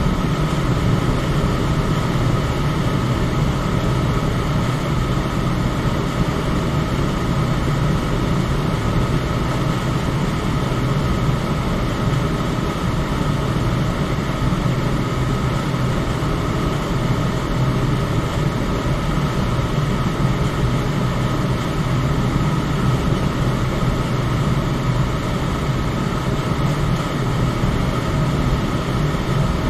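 Electric fan running steadily, a constant rush of air with a low hum and a faint higher tone, unchanging throughout.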